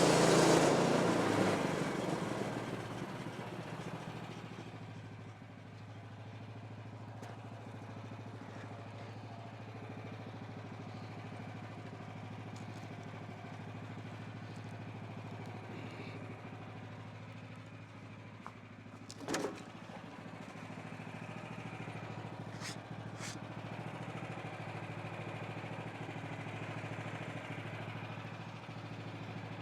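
Small gasoline engine of a portable bandsaw mill running steadily. A loud rushing noise at the start dies away over the first few seconds, leaving the engine's even hum. A sharp knock comes about 19 seconds in, and two short clicks a few seconds later.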